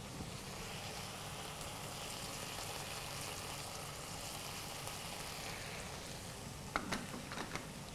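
Chicken lollipops in a thick chilli sauce sizzling steadily and quietly in a wok, with a few light clicks near the end.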